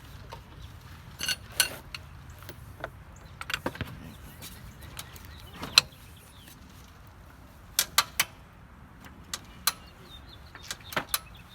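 Scattered sharp metallic clicks and clinks from tools and parts being handled during work on a car's air-suspension compressor. They come at uneven intervals, with a quick run of three about eight seconds in.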